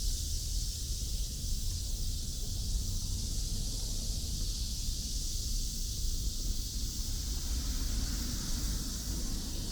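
Steady outdoor ambience: a constant high hiss over a low rumble, with no distinct events.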